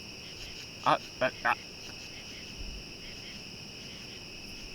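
Crickets chirping in a steady, continuous chorus. About a second in, three short, loud voice-like sounds come in quick succession.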